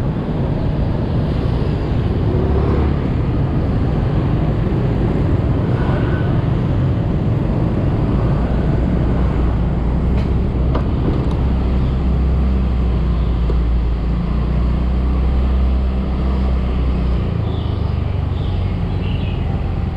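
Yamaha scooter running steadily while being ridden through city traffic, a dense low rumble with the engine note dropping about seventeen seconds in.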